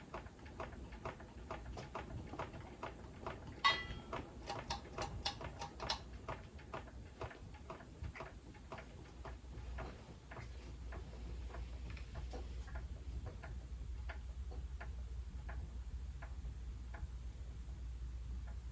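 Hampton Bay Redington IV ceiling fan running with a rhythmic clicking, about two to three ticks a second over a low steady hum. A few louder, ringing clicks come a few seconds in.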